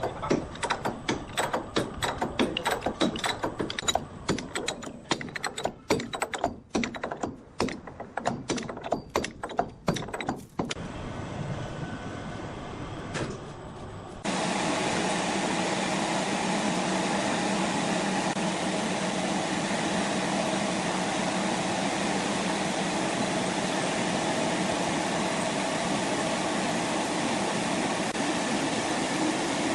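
Sawmill machinery: rapid, irregular clattering knocks for about ten seconds, then a few quieter seconds. Near the middle a steady machine drone starts abruptly and runs on evenly.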